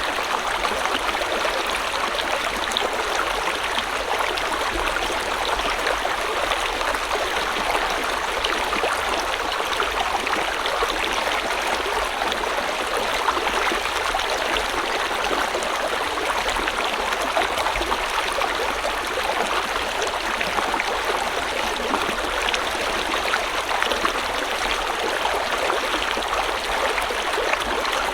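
A shallow river or stream flowing steadily, a dense even rush of water with fine splashing and gurgles over rocks.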